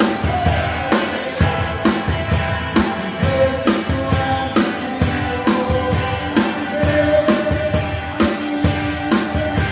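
Drum kit played in a steady rock beat, with kick drum, snare and cymbals, over backing music with pitched instruments.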